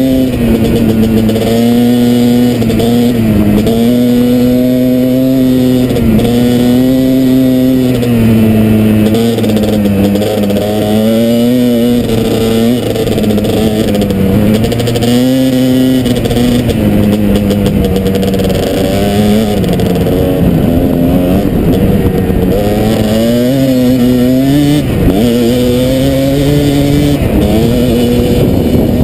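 Kawasaki KDX220's two-stroke single-cylinder engine running under way, its pitch rising and dipping again and again with throttle and gear changes.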